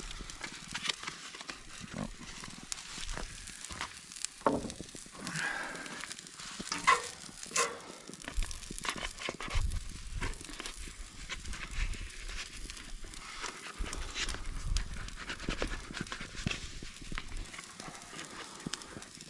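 Burger patties sizzling in a cast-iron skillet over a campfire, with irregular scrapes and clicks against the pan as the stuck meat is worked loose.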